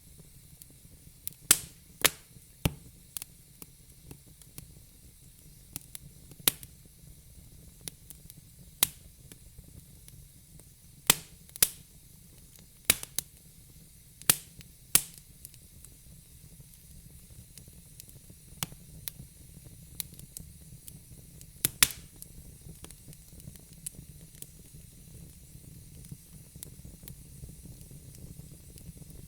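Wood fire crackling in a fire pit: irregular sharp pops and snaps over a low, steady rush, the pops coming thick in the first half and thinning out later.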